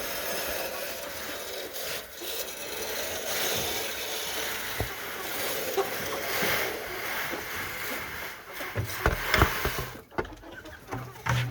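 Dry poultry feed pouring from a bucket into a chicken feeder, a steady rasping rustle, followed by a few knocks near the end.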